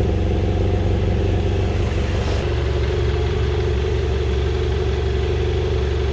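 BMW F800GS motorcycle's parallel-twin engine running steadily at low revs.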